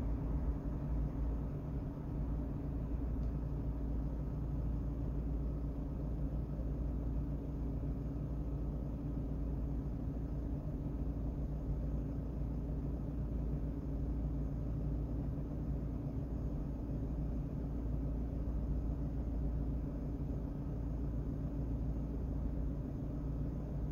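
Car engine idling, a steady low rumble heard from inside the stationary car's cabin.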